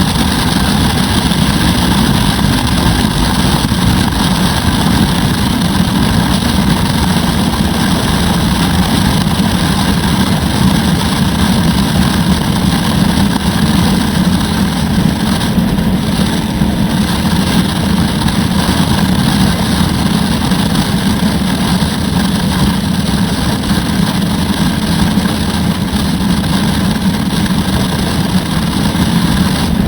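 Harley-Davidson Road Glide's V-twin engine running steadily under way, heard from a helmet-mounted camera with an even rush of noise over it.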